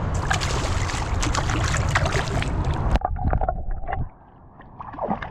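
Water splashing and sloshing close to the microphone, with many sharp little splashes. About three seconds in the sound turns suddenly dull and muffled, as the camera goes under the water, leaving faint underwater knocks and bubbling.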